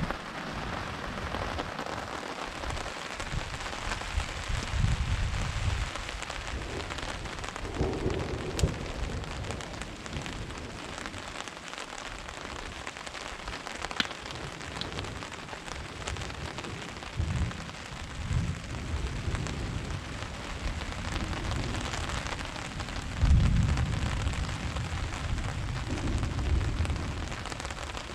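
Steady rain falling, with several low rumbles of thunder rolling in and out; the loudest rumble comes a few seconds before the end.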